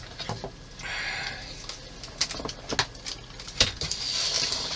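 Light clicks and knocks, about five scattered through, with two short rustles: a plastic model kit being handled and taken apart.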